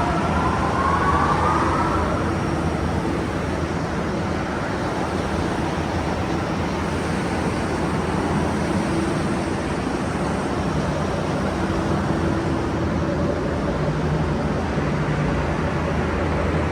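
A machine running steadily, with a whine rising in pitch over the first two seconds.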